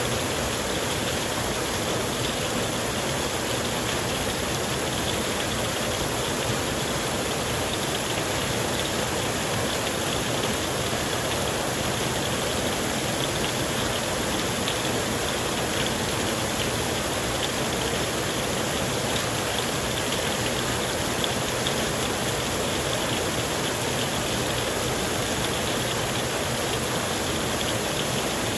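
Rain falling steadily on a tent, an even hiss with faint drop ticks and no change in level.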